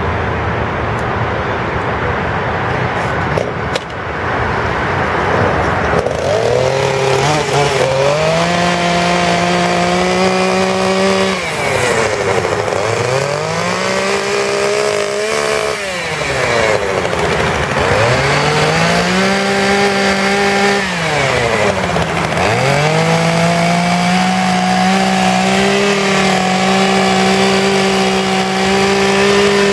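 Petrol chainsaw running at a lower speed, then revved up and held at high speed, dropping back and climbing again three times.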